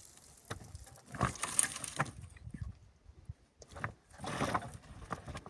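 A cow making two low, noisy groans, about a second in and again near the end, with a few scattered clicks and knocks between them.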